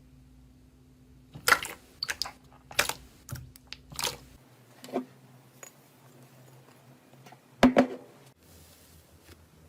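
A soft crunchy ASMR material pressed and squeezed by hand, giving a string of sharp crackles and pops at irregular intervals, loudest about a second and a half in and again near the end.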